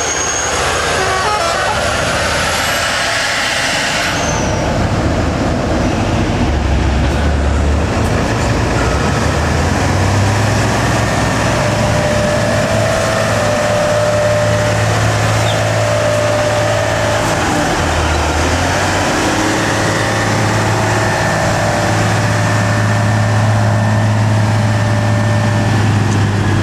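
Heavy diesel truck engine running with a steady low drone that grows stronger about ten seconds in, under a broad hiss that cuts off suddenly about four seconds in.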